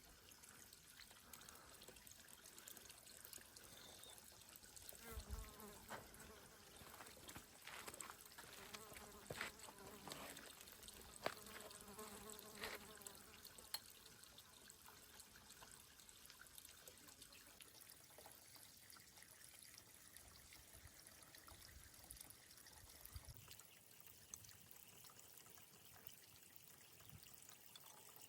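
Near silence: faint outdoor ambience, with a scattering of faint clicks and ticks in the middle.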